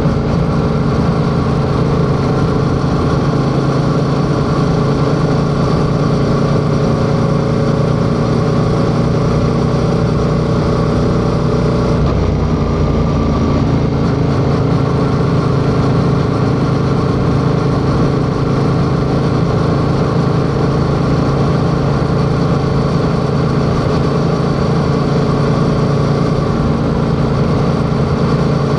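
Yamaha XSR700's 689 cc parallel-twin engine running steadily under way, heard from the rider's position. Its note shifts briefly about twelve seconds in, then settles again.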